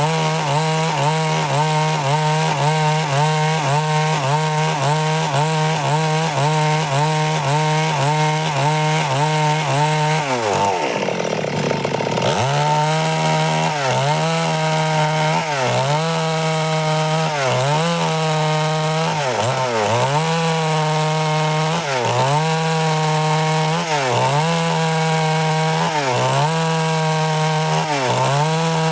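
Stihl MS 382 two-stroke chainsaw running at high revs while cutting wood. About ten seconds in the revs fall sharply for a couple of seconds and then recover; after that the pitch dips briefly about every two seconds.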